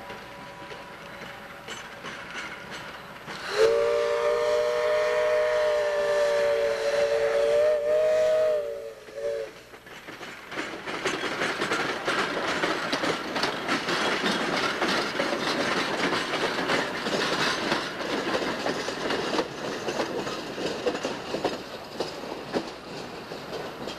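A locomotive whistle sounds a chord of several close tones for about six seconds, wavering just before it cuts off. Then the train's cars roll past, wheels clicking over the rail joints.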